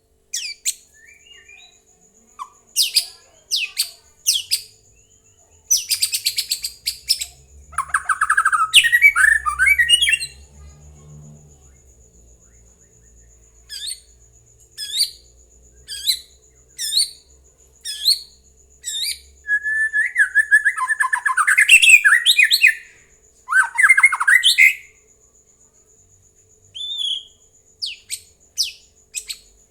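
White-rumped shama (murai batu) singing: loud phrases of sharp whistled notes that sweep downward, broken by richer warbling runs and short pauses.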